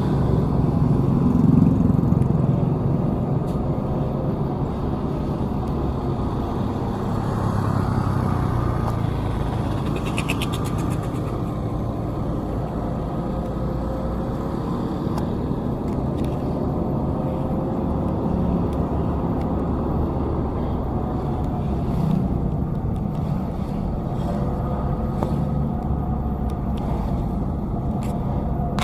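Steady motor-vehicle engine and road noise with a continuous low rumble and engine tones that rise and fall slightly. A brief fast ticking comes about ten seconds in.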